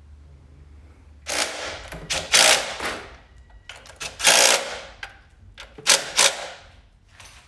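Impact wrench running in about six short bursts, starting about a second in and ending near the end.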